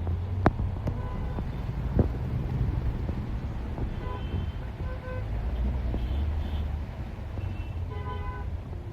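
Steady low engine and road rumble heard from inside a moving bus, with a few sharp knocks in the first two seconds. Short vehicle horn toots sound from the traffic around the middle and again, several in a row, near the end.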